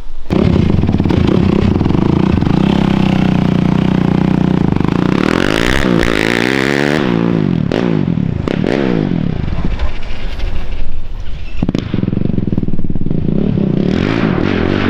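2019 Yamaha YFZ450R quad's single-cylinder four-stroke engine running loud through a Rossier R5 aftermarket exhaust. It holds a steady note, then rises and falls in pitch several times as it is revved in the middle, with a few scraping knocks, before settling back to a steady note near the end.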